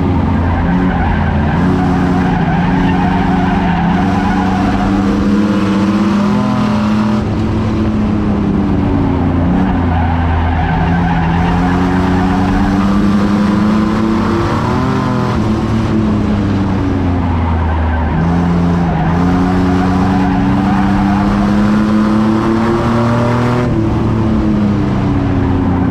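A racing truck's engine running hard, its pitch dropping and climbing again about every eight seconds, over steady tire and road noise.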